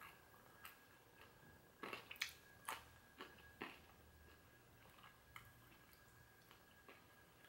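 Faint chewing and mouth sounds of someone eating fried chicken off the bone, with a cluster of small sharp clicks about two to four seconds in.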